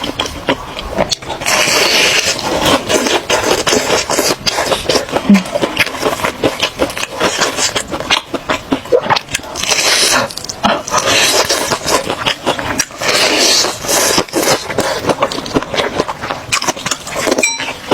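Close-miked eating of chicken noodles with meatballs: steady wet chewing and mouth clicks, with several longer hissing slurps of noodles.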